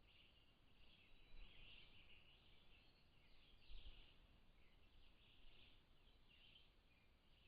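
Faint, distant birdsong: high chirps and short trills repeating over a low background hiss, with a brief low rumble about halfway through.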